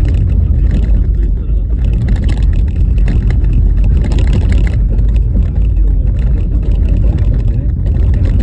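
Car driving on a rough, bumpy snow-covered road: a steady low rumble of tyres and road noise with frequent small knocks and rattles from the uneven surface.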